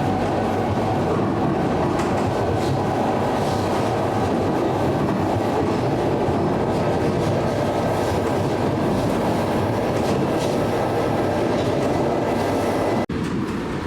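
A train running steadily on rails, its wheels clattering over the track with a continuous loud rumble. The sound breaks off abruptly about a second before the end and resumes thinner.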